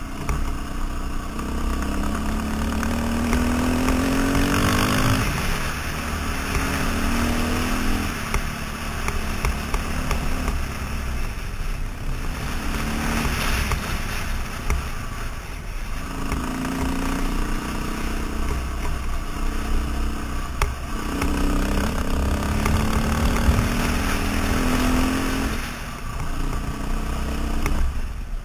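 KTM 530 dirt bike's single-cylinder four-stroke engine under way on a gravel road. The revs climb and drop back several times as it accelerates and shifts, over a steady rush of wind noise.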